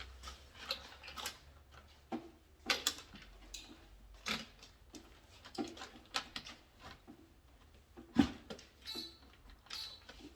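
Irregular clicks and knocks of hand tools and small wiring parts being handled during electrical panel work, about a dozen sharp taps spread unevenly, the loudest a little after eight seconds in.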